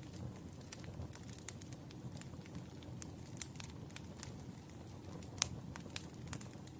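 Firewood burning and crackling: irregular sharp pops and snaps over a steady low rumble of the fire, with one louder pop about five and a half seconds in.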